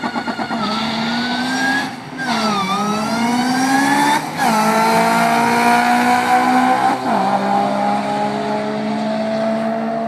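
Supercharged Honda Civic Si engine at full throttle on a drag run. It pulses briefly at the start, then its pitch climbs and drops sharply at upshifts about 2, 4 and 7 seconds in.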